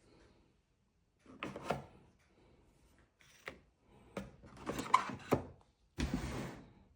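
Objects being handled: irregular knocks and clicks, the sharpest about five seconds in, followed near the end by a short scraping rush.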